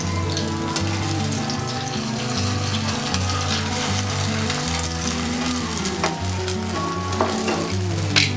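Batter flatbread sizzling steadily as it fries in oil in a nonstick frying pan. A few sharp clicks of the spatula against the pan come in the last couple of seconds, over soft background music.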